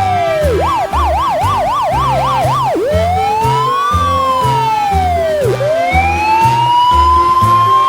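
Emergency-vehicle siren: a slow rising and falling wail, then a fast yelp of about three to four cycles a second, another slow wail, and near the end a glide up into a steady held tone. A backing tune with a steady beat plays underneath.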